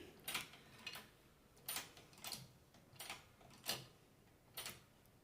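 Faint, uneven clicks, roughly one or two a second, from a workshop press being worked to press a new bearing into place on a car alternator.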